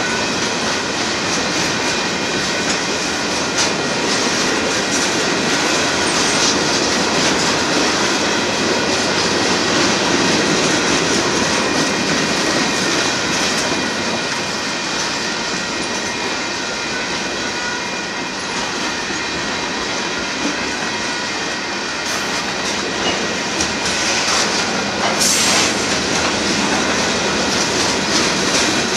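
Mixed freight cars of a Union Pacific manifest train rolling past, steel wheels on rail making a steady rolling noise with a faint high whine running through it. Near the end there is a brief sharp screech.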